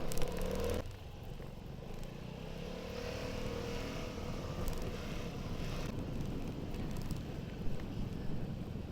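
Vespa scooter engine running steadily while riding, with road noise.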